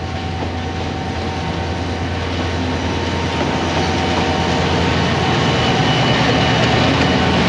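Local passenger train running, a dense rumble with a few faint steady tones over it that grows steadily louder.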